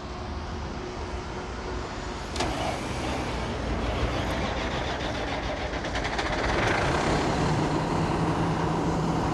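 Fire ladder truck's engine running steadily, getting louder about seven seconds in, when a steady low hum comes in.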